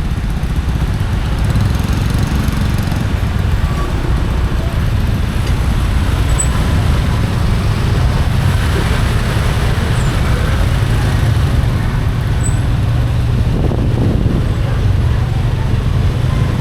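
Steady low rumble of a motorcycle ride: the engine running with road and wind noise on the microphone, amid passing traffic.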